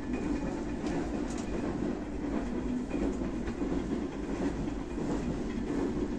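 Passenger train running on the rails: a steady rumble with a few faint clicks from the wheels.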